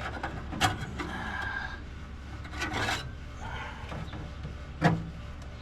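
Sheet metal scraping and rubbing in a few short strokes as a steel panel is worked into place, with a sharp knock near the end.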